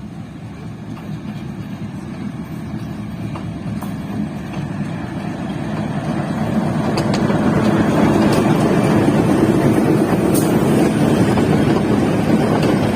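Local passenger train pulling into the station, its rumble growing steadily louder for about eight seconds as it nears and then staying loud, with a few faint clicks from the wheels.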